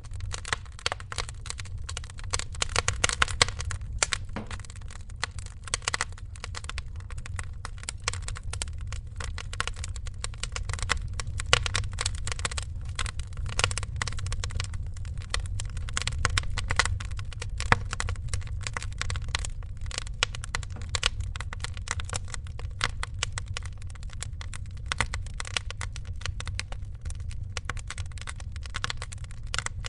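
Wood fire crackling and popping in a fireplace: a dense, irregular patter of small cracks with a few louder pops, over a steady low rumble of the flames.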